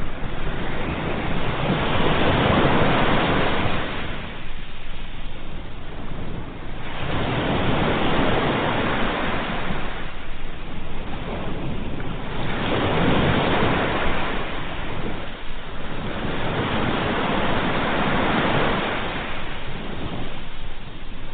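Ocean waves breaking on the shore, the surf swelling and receding about every three to five seconds.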